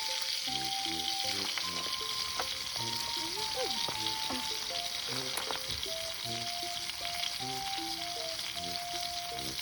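Hamburger steak and tomatoes sizzling steadily in hot fat in a pan, a constant frying hiss. A light background melody plays over it.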